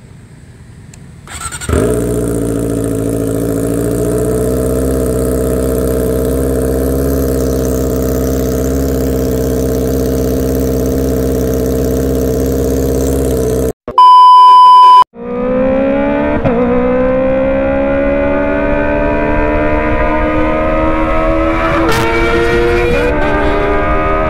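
Kawasaki ZX25R's 250 cc inline-four running through a Racefit Slash full-system exhaust: it comes in about two seconds in and runs at a steady speed. After a loud, steady beep of about a second midway, the revs climb slowly.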